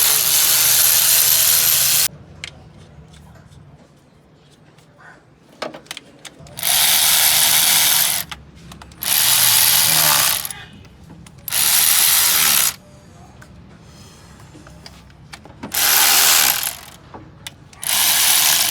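A compressed-air tool in a car workshop, let off in six separate hissing bursts of one to two seconds each, with short pauses between them.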